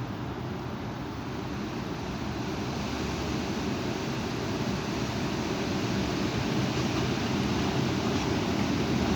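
Strong wind blowing outdoors, a steady rushing that grows gradually louder.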